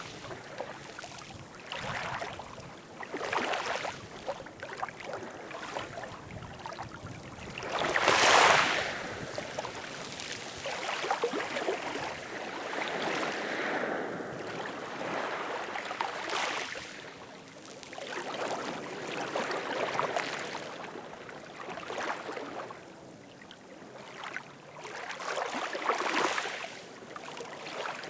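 Ocean waves washing in and out, a hiss that swells and fades every few seconds, with one bigger wave breaking about eight seconds in.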